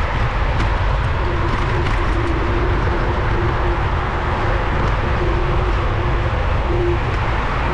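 Wind buffeting a bicycle-mounted GoPro on the move, with road noise from street traffic. A faint steady tone keeps breaking in and out from about a second in.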